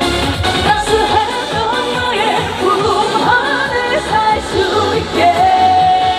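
Korean trot song performed live by a female singer over music with a steady beat; her voice moves through a melodic line and holds one long note near the end.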